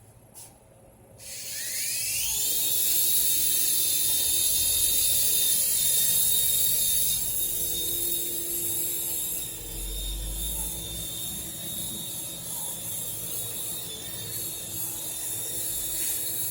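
Small electric motors of a toy remote-control helicopter spinning up with a rising whine about a second in, then running at a steady high whine, a little quieter from about ten seconds in, and cutting off at the end. The helicopter is running on a weak, discharging battery.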